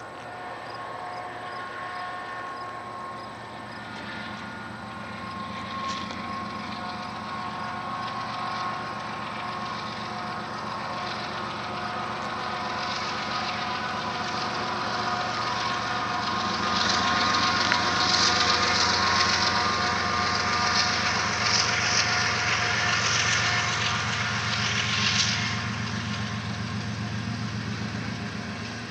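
Union Pacific diesel locomotives of a loaded coal train approaching and passing, their engines running with steady tones. The sound grows louder, and from about halfway through the rolling noise of the coal hoppers' steel wheels on the rails takes over.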